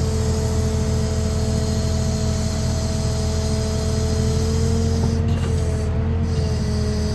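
Heavy diesel engine of a log truck running steadily, with a constant whine above the engine note.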